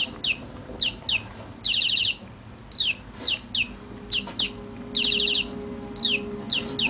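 Budgerigar chirping: repeated short, high, downward-sliding chirps, often in pairs, broken by a few quick rattling trills.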